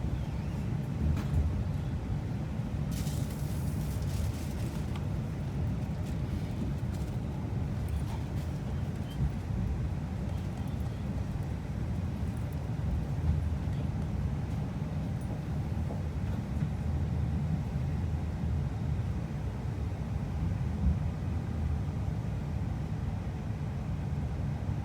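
Steady low rumble of a moving vehicle, with a short hiss about three seconds in.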